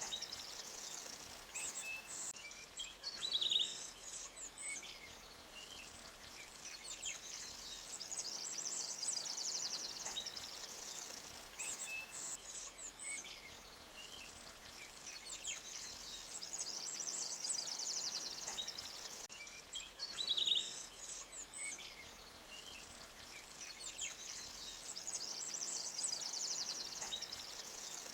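Forest ambience: birds chirping, with a high rapid trill that swells and fades every eight seconds or so, over a faint steady hiss of running creek water.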